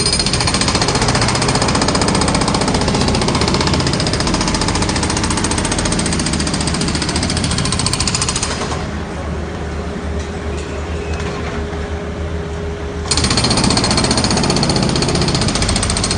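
Jackhammer hammering in rapid, continuous strokes on a construction site, over a steady machine hum. About nine seconds in the hammering drops back for some four seconds, then starts again at full strength.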